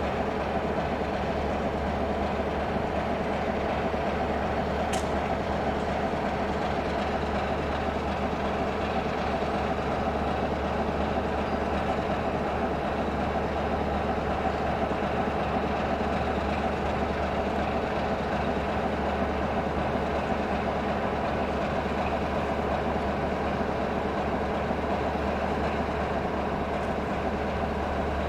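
Class 33 diesel locomotive's Sulzer eight-cylinder engine running steadily, with a single sharp click about five seconds in.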